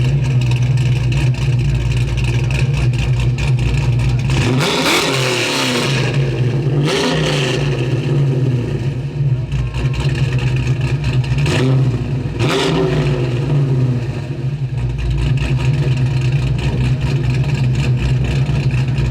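A car engine idling with a steady low rumble, revved up and back down four times: two blips about five and seven seconds in, and two more close together around twelve seconds.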